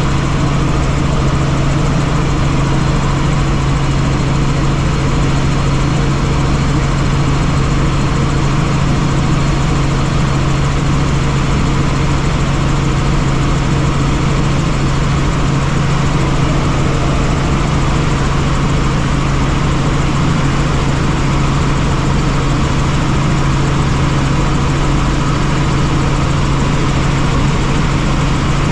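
Helicopter in flight: loud, steady rotor and engine noise with a strong, constant low drone.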